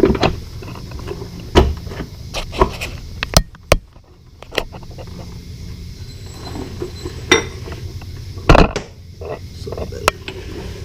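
Scattered metal clinks and knocks of tools and suspension parts being handled while a strut is fitted, with a louder knock about eight and a half seconds in, over a low steady hum.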